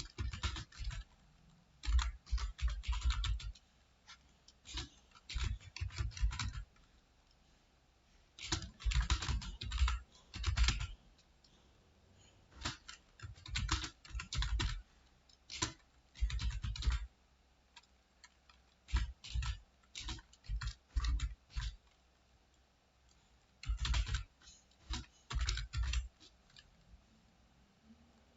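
Computer keyboard being typed on in quick runs of keystrokes with short pauses between them, as in typing-test practice.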